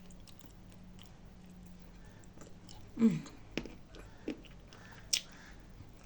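Close-up chewing and crunching of dry nzu edible clay: scattered crisp clicks and crunches, with a short voiced sound falling in pitch about halfway through.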